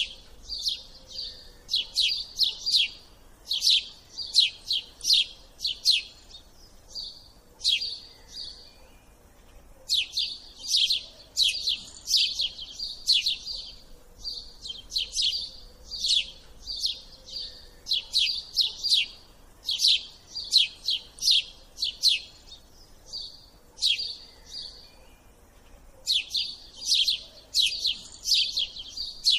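Small birds chirping and twittering in fast runs of high notes, broken by two short lulls.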